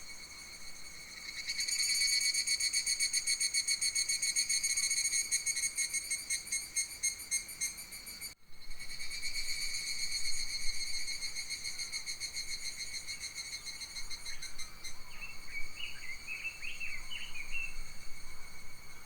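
An insect trilling steadily in a summer forest, a high pulsing buzz with a ringing overtone quality. It builds in about a second and a half in and cuts out for an instant just past the middle. Near the end a bird calls with a few short chirps over it.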